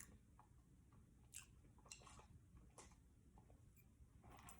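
Near silence with faint chewing: a few soft, short clicks and crunches of someone eating a crispy fried chicken sandwich.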